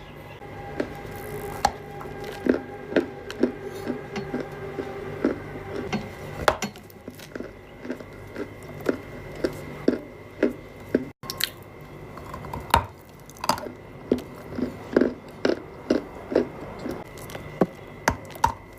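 Close-up crunching and chewing of dry edible clay: short, sharp bites repeating about twice a second.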